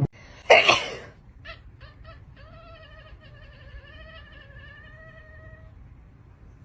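A domestic cat: a loud short burst of noise about half a second in, a few small ticks, then one long wavering meow lasting about three seconds.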